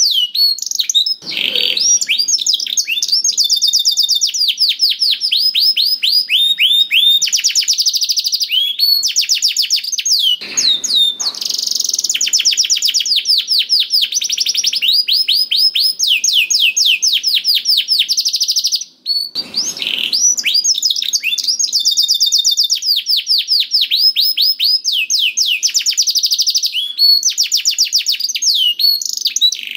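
Domestic canary singing continuously in long, rapid trills of repeated high-pitched notes, broken by a few short pauses.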